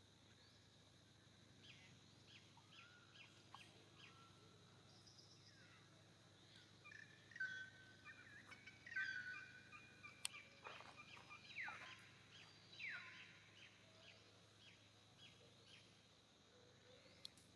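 Faint series of short, high chirping animal calls, a couple a second, with a few calls that sweep downward in pitch around the middle.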